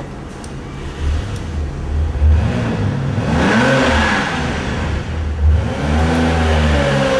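A car engine revving: its pitch rises and falls twice over a steady low running note.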